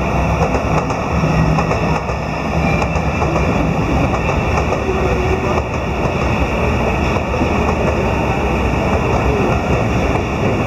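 Electric commuter trains running on the tracks below: a steady, loud noise of wheels on rails.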